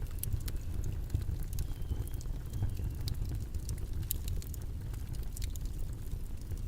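Steady low rumbling background noise with irregular sharp crackles and clicks scattered throughout.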